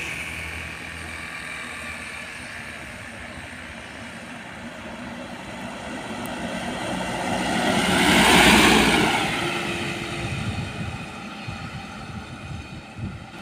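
A vehicle passing by on a road: the sound of the one before it dies away, then another comes up, is loudest about eight seconds in, and fades off.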